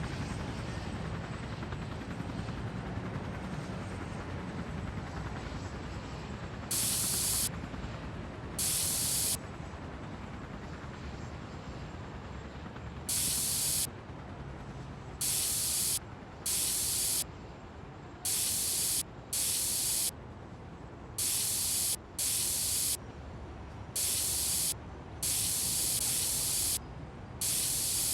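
Repeated short bursts of hissing spray, about a dozen, each lasting under a second and starting and stopping sharply, over a steady low background rumble.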